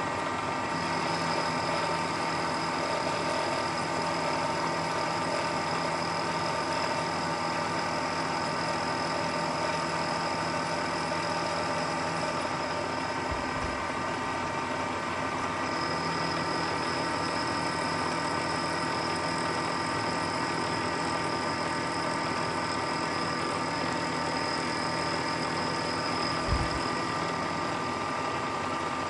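Milling machine running steadily with a hum and whine while its end mill rough-cuts an aluminium bar. A higher whine drops out for a few seconds in the middle. There are two short low thumps, the second louder, near the end.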